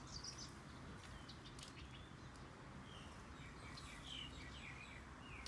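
Small birds chirping faintly over low outdoor background noise: a few short high calls right at the start, then a run of chirps from about three seconds in.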